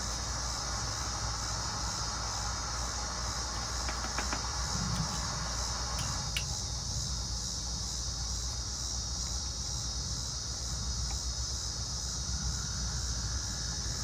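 Steady high-pitched insect chorus, like crickets, running without a break. Under it is a softer hiss that drops away about six seconds in, with a few light clicks around four and six seconds.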